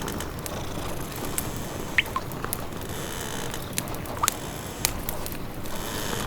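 Layered fireplace-and-rain ambience: a wood fire crackling with scattered sharp pops and a few short squeaks, over a steady patter of rain.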